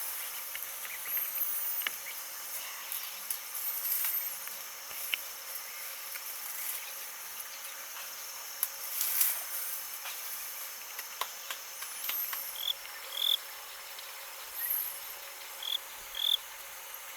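Crickets and other insects chirring steadily, with a few short high peeps in the last few seconds.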